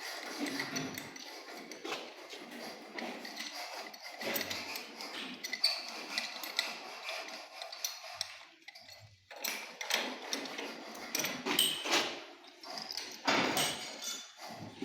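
Irregular metal knocks, clinks and scraping, as of pipes and hand tools being handled, with a few brief ringing notes.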